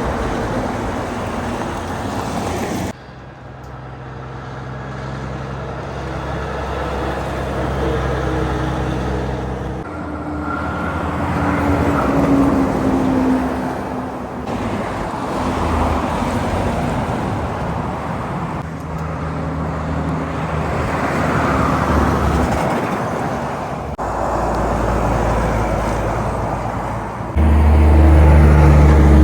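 Highway traffic with trucks and cars passing one after another, their engine and tyre noise swelling and fading with each vehicle. The sound changes abruptly a few times, and a loud, deep engine drone sets in near the end.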